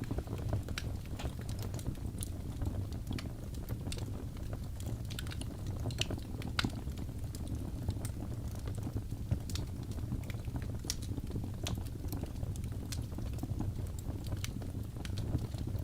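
Birch logs burning in a fireplace: a steady low rumble of the flames with sharp wood crackles and pops at irregular intervals. The loudest pop comes about six and a half seconds in.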